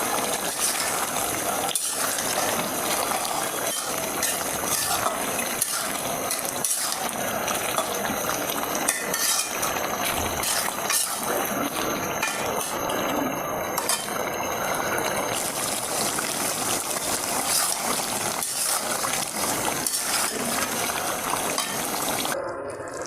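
Chicken bhuna frying in a pan with a steady sizzle, with now and then a knock of a spoon stirring against the pan.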